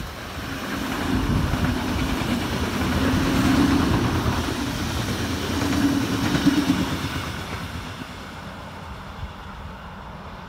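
Electric passenger train passing close by on the rails. The rumble and wheel noise build over the first second, stay loud with a low hum through the middle, then fade over the last few seconds as it moves away.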